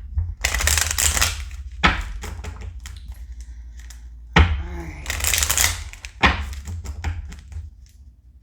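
Tarot cards being handled and shuffled: several spells of rapid papery clicking, some of them starting with a knock on the table, quieter near the end.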